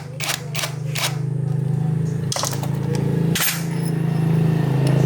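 A steady low machine hum with a fast flutter, with several sharp metallic clicks and knocks over it, the loudest about a second in and near the middle.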